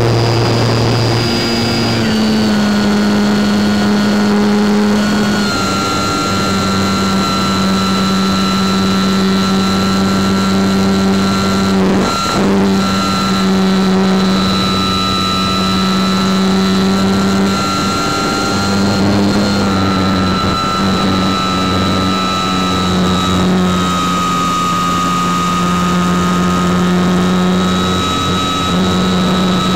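RC motor-glider's motor and propeller running steadily, heard close up from a camera mounted on the plane. It is a loud hum with a high whine above it, and the pitch steps down slightly a few times.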